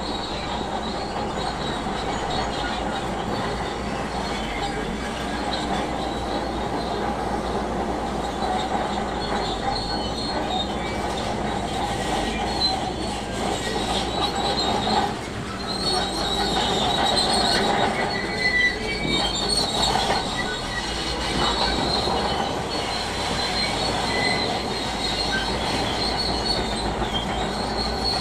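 Bulldozer's steel crawler tracks squealing and clanking as it moves, over its diesel engine running. The metallic squeal runs throughout and grows louder for a few seconds past the middle.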